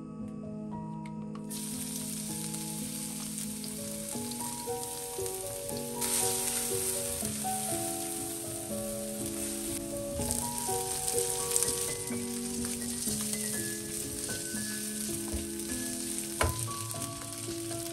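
Chopped shallots and garlic sizzling in hot oil in a granite-coated wok while a silicone spatula stirs them, with sliced meatballs frying in the same pan later. The sizzle starts about a second and a half in and grows louder about six seconds in. There is a single knock near the end, and soft background music plays throughout.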